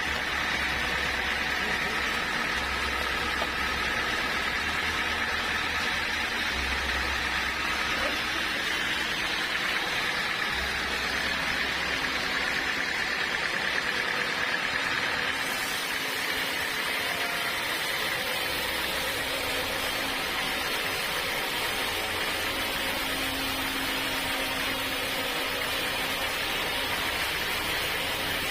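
Sawmill saw running steadily through a dense acacia log, a constant noisy hiss over a low machine hum, with the tone shifting slightly about halfway through.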